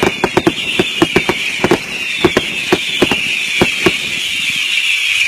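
Firework barrage going off: rapid sharp bangs and crackles, thick for the first two seconds and then more spaced out, over a continuous high, wavering whistle from whistling fireworks.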